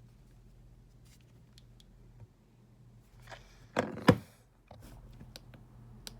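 Handling noise from a phone: quiet room tone with a low steady hum, a few small clicks, and about four seconds in a short rustle and two sharp knocks a fraction of a second apart.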